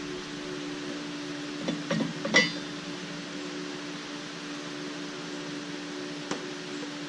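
Steady machine hum with an even hiss, and a couple of light metal clinks about two seconds in and a faint click near the end.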